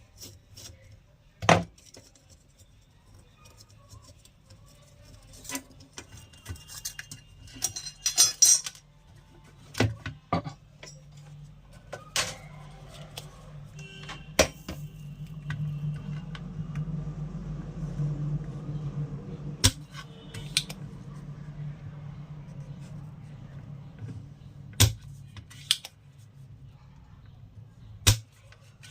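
Bench repair handling sounds as a 4440 amplifier IC is desoldered and removed from the circuit board: a series of sharp clicks and light metallic clatter of tools and parts, with a low steady hum through the middle stretch.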